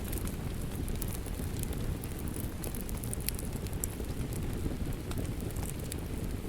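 Wood fire crackling with frequent small sharp pops, over a steady heavy hiss of rain.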